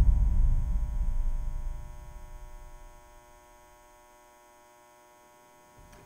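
A deep low rumble fading away over the first two to three seconds, leaving a faint steady electrical hum.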